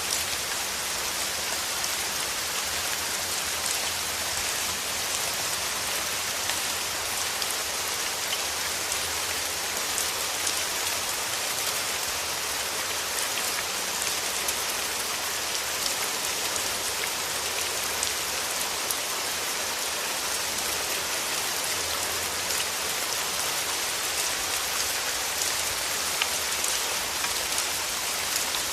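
Steady rain falling through forest trees, a constant hiss with many small drop patters on leaves.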